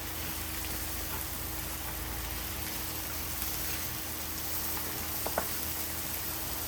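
Black pork and kimchi sizzling steadily on a hot cast-iron pot-lid griddle.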